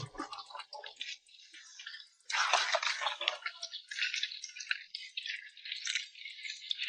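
Water dripping and trickling with quick light clicking as a freshly caught haul of live crabs and fish is handled. It starts about two seconds in and goes on as a busy crackle.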